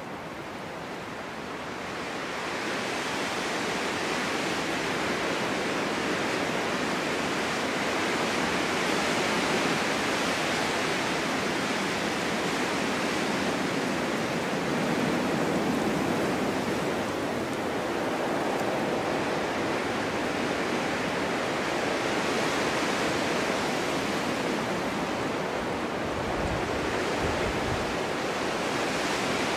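Snowstorm wind blowing steadily, a rushing that swells about two seconds in and then rises and falls in slow gusts.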